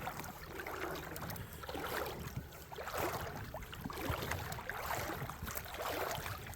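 Footsteps of a person walking along a creek, a soft scuffing step about once a second, over a faint steady background hiss.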